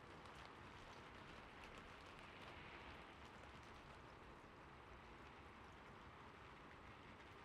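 Faint, steady gentle rain hiss, with a few soft scattered ticks.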